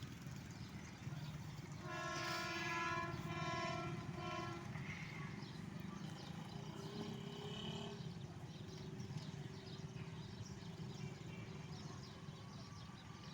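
Hitachi diesel locomotive's horn sounding about two seconds in for roughly three seconds, in short broken blasts. Under it runs the steady low rumble of the approaching goods train.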